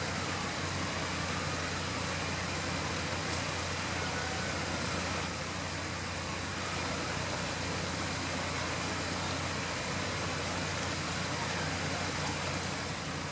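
Off-road vehicle's engine running steadily, with a constant low hum.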